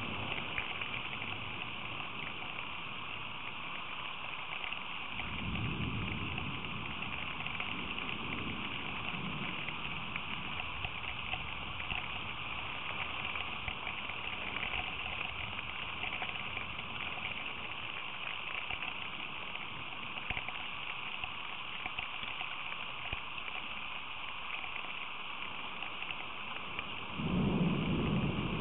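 Steady rain hiss with low rumbles of thunder, one from about five to ten seconds in and another starting near the end.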